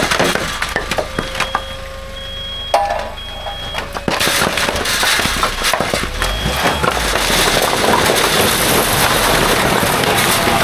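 A dump truck tipping its bed, with a steady mechanical whine and a high warning beep repeating under it. About four seconds in, the load of split oak firewood slides off and clatters down in a long continuous rush of knocking logs.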